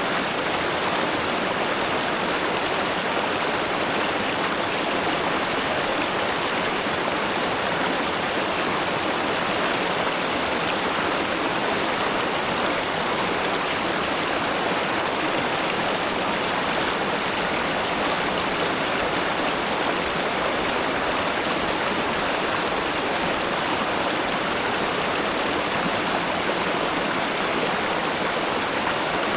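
River water flowing and rushing over stones, a steady even wash of noise.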